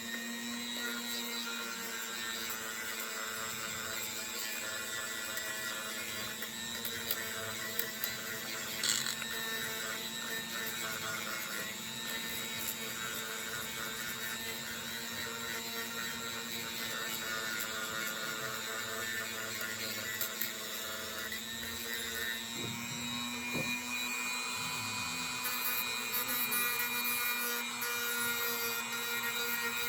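Dremel rotary tool running steadily with a sanding attachment, grinding rust off a small rusted RC shock; a steady whine that shifts in pitch about two-thirds of the way through.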